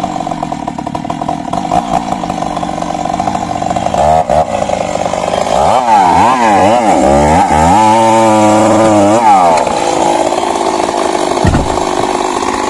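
Stihl MS 382 two-stroke chainsaw running steadily, then from about four seconds in revving up and down several times before settling back to a steady run. A short low thump near the end.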